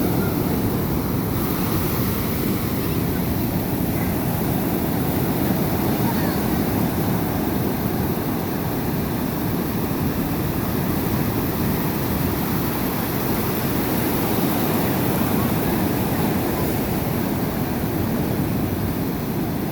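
Big ocean waves breaking on a beach, a steady wash of surf noise, with wind buffeting the microphone.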